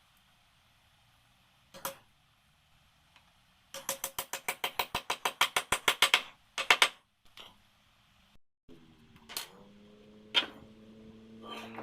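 A fast run of sharp clicks, about eight a second, lasting a couple of seconds, with a few single knocks around it. Near the end a power tool's motor starts up with a steady hum that grows louder.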